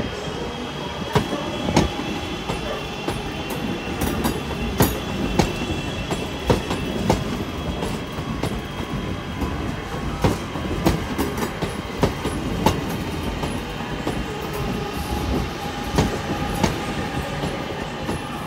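A train moving slowly through the station, its wheels clicking irregularly over rail joints and pointwork, with a faint high wheel squeal running under the rumble.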